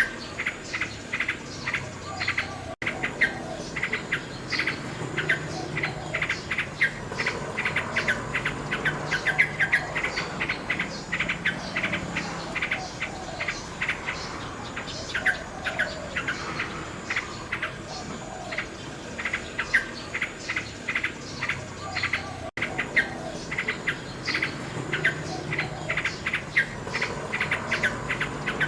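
Nightingale singing: fast runs of short repeated clicking and trilling notes, with now and then a drawn-out whistled note. The sound cuts out for an instant twice.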